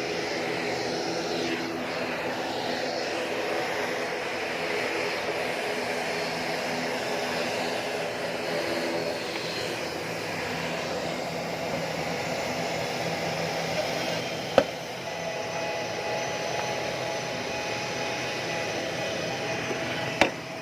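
Steady turbine noise from a Boeing 737-900ER, a constant hum with several held tones. Two sharp clicks stand out, one about two-thirds of the way through and one near the end.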